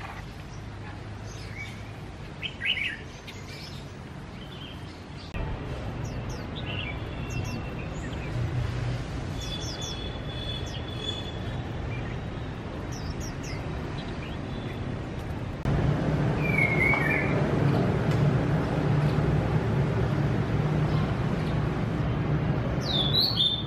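Caged songbirds chirping, with scattered short calls and a few brief whistled phrases over a steady background noise and low hum; the background grows louder about five seconds in and again past the middle.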